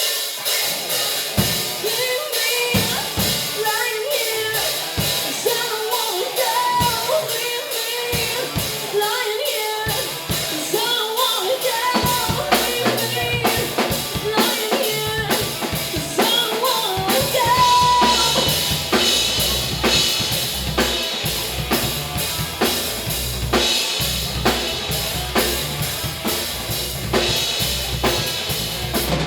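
A band playing live music: a drum kit keeps a steady beat under melodic lines, and the bass fills in about halfway through.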